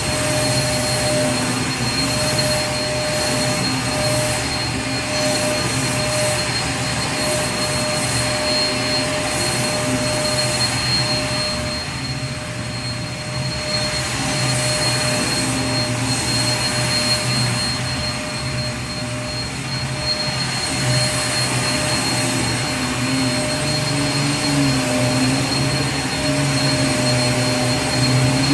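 Vacuum cleaner running steadily, a rush of air with a constant whine over it. The sound drops a little twice, about halfway through and again about two thirds of the way in.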